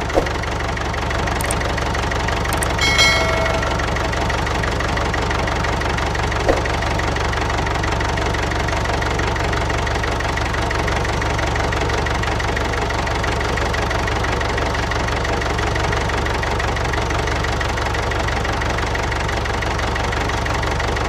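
An engine or motor running steadily at an even idle, with a short high chime about three seconds in.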